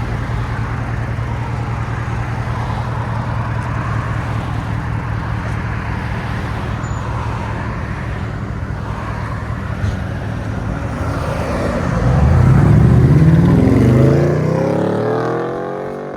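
Pontiac G8 GT's 6.0-litre V8 running through a muffler-deleted exhaust, straight pipe except for two small middle resonators: a steady low idle, then about twelve seconds in a single rev that climbs, holds briefly and falls back.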